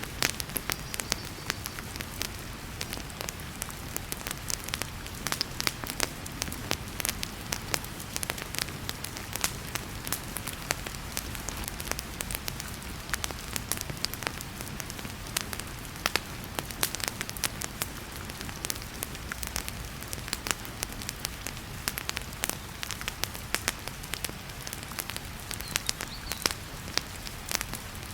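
Wood fire crackling with frequent, irregular sharp pops over the steady hiss of heavy rain.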